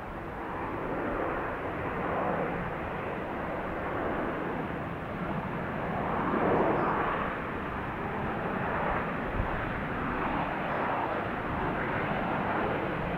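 A fixed-wing airplane's engines, heard as a broad rushing noise. It swells to its loudest about halfway through, then eases off slightly near the end.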